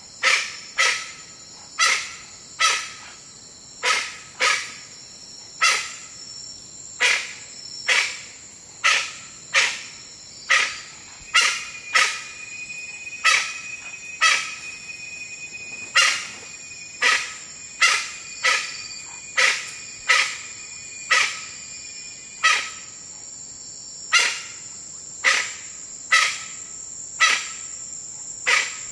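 A jungle bird giving loud, sharp, repeated calls, about one or two a second with uneven gaps, over a steady high chorus of crickets and insects. A thin steady insect tone joins for a few seconds near the middle.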